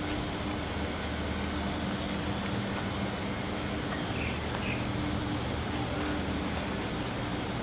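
Steady city street noise with a low, even engine hum from traffic, and two short high chirps about four seconds in.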